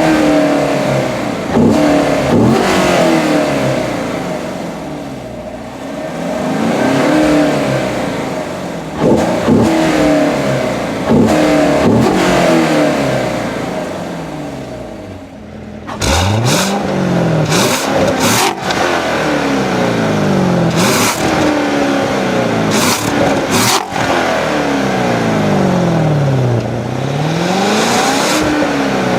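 2016 Corvette Stingray's 6.2-litre LT1 V8, its dual-mode exhaust set to tour mode, revving up and dropping back several times. About sixteen seconds in the sound changes to longer, smoother rises and falls in engine pitch.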